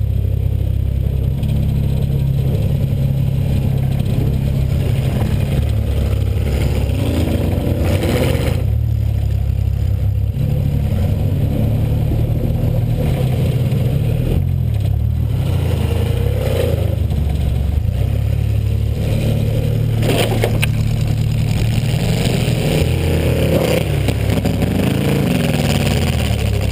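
2000 Buick LeSabre's 3.8-litre V6 engine heard from inside the car, running hard and revving up and down, with clattering and scraping and a few sharp knocks of impacts along the way.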